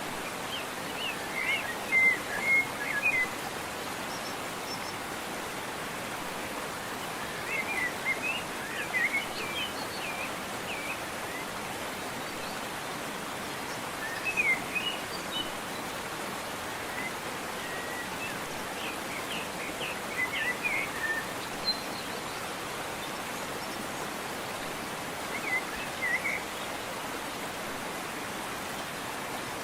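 Steady rush of a waterfall with small birds chirping over it in short bursts of song every few seconds.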